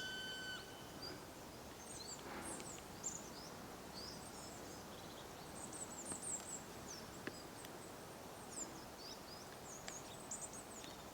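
Dawn forest birdsong: small songbirds giving many short, high-pitched chirps and twitters over a faint background hiss. A short steady tone sounds right at the start, and a single faint click about seven seconds in.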